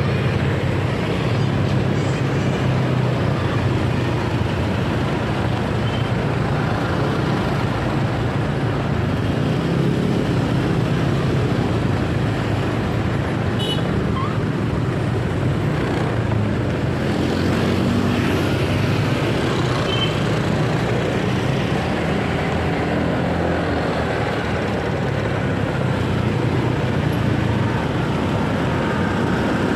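Motorcycle riding through city traffic: a steady low engine drone under a constant rush of road and traffic noise.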